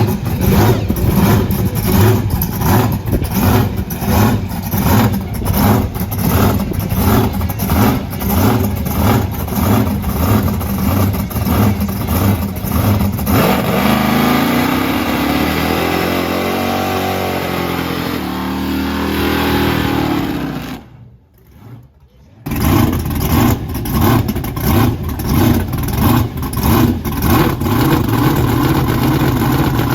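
Car engine being revved in quick, regular blips, about two a second, then held in a longer rev whose pitch rises and falls. The blipping stops briefly about two-thirds of the way through, then starts again.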